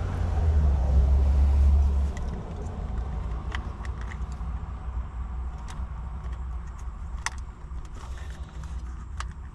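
Scattered small clicks and taps of wires and connectors being handled under a dashboard, over a steady low rumble that is heaviest in the first two seconds.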